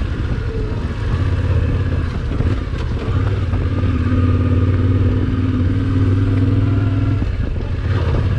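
Motorcycle engine running at a steady pace, easing briefly about two seconds in and then holding an even speed.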